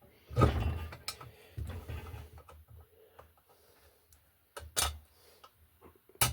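Metal parts and hand tools clinking and knocking as heat exchanger parts are fitted: a handful of separate sharp clicks and knocks, the loudest about half a second in, with quieter stretches between.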